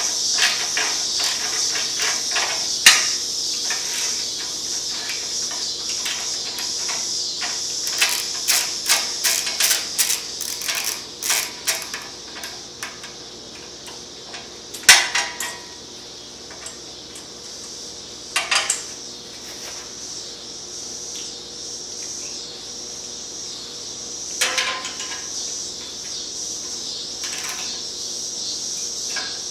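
Metal hand tools clinking and knocking against a motorcycle's exhaust hardware as its nuts and bolts are worked loose: scattered sharp clinks, with a quick run of them about a third of the way in, over a steady high hiss.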